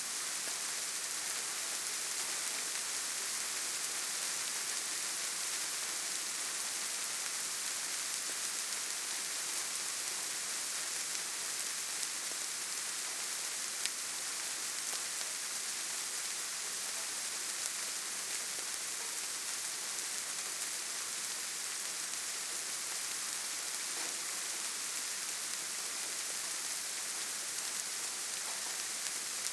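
Steady rainfall: an even hiss of rain with scattered drops ticking, one a little sharper about halfway through.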